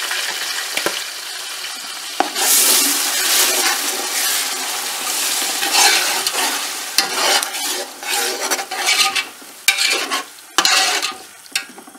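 Garlic, ginger and green chilli paste sizzling in hot oil with fried onions, stirred with a slotted metal spoon that scrapes against the pot. The sizzle is somewhat quieter toward the end.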